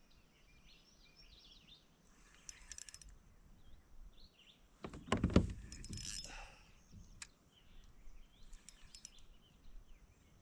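Birds chirping in the background, with a few scattered light clicks and one loud dull thump about five seconds in.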